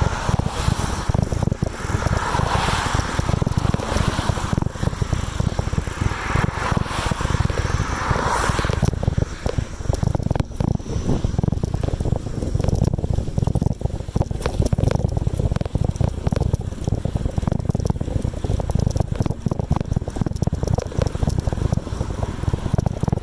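Wind buffeting the microphone over the rumble and rattle of a moving bicycle on the road. A brighter hiss swells a few times in the first nine seconds.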